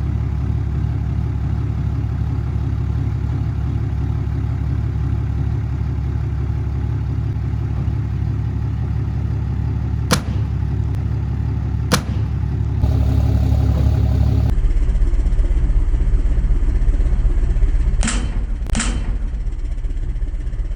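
Heavy pickup truck engines running hard under load in a tug of war, a steady low rumble. Sharp cracks come about ten and twelve seconds in, and two more near the end.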